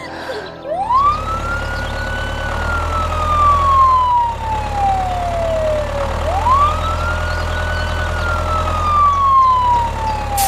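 A siren wailing in two slow cycles, each rising quickly and then falling slowly over about five seconds, over a steady low rumble.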